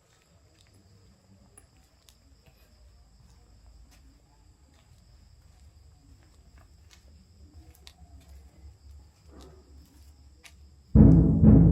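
Insects keep up a faint, steady, high-pitched chirring, with scattered small ticks. About eleven seconds in, two loud, deep drum strikes come in quick succession and ring on.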